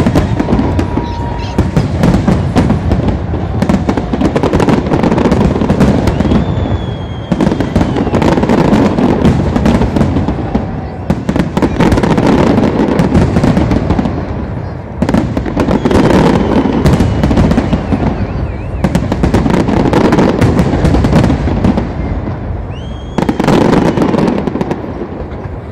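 Aerial fireworks display: dense crackling and popping with heavier bangs, coming in waves a few seconds long with about five brief lulls between them.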